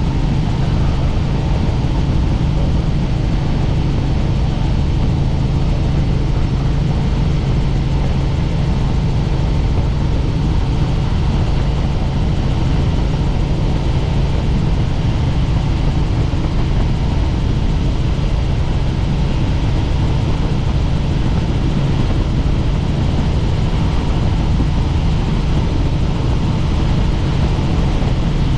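Helicopter in flight: a loud, steady drone of rotors and engine, unchanging throughout.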